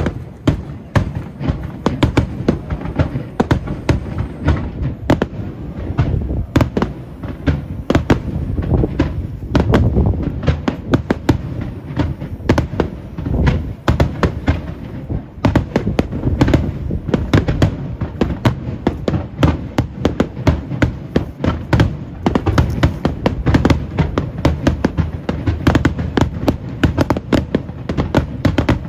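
Aerial fireworks shells bursting in a dense barrage: many sharp bangs, several a second, over a continuous low rumble.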